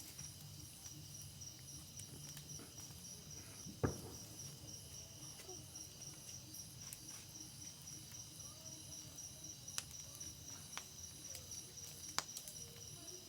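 Crickets chirping steadily in a high, rapidly pulsing trill, with a few isolated sharp pops, the loudest about four seconds in.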